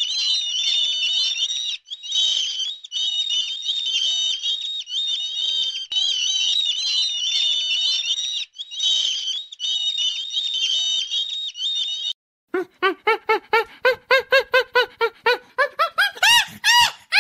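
A flock of birds calling in a high, continuous chatter, broken by a few short gaps. Then, from about twelve seconds in, quick repeated goose-like honks follow at about three a second, louder than the chatter.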